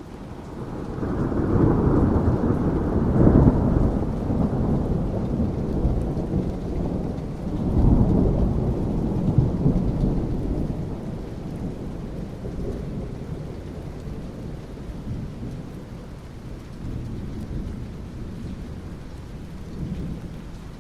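Thunder rumbling over steady rain: one long rolling peal swells over the first few seconds, a second roll comes at about eight seconds, then the thunder fades away under the rain's hiss.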